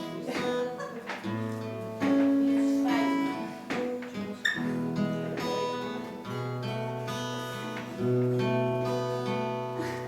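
Acoustic guitar playing an instrumental lead-in to a slow ballad, strummed chords with held low notes.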